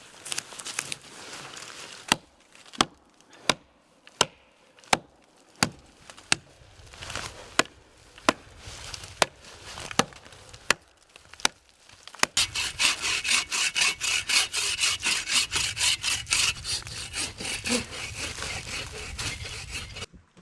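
Wood being cut by hand: a run of sharp, evenly spaced strokes a little under one a second, then from about halfway fast saw strokes, four or five a second, that stop abruptly near the end.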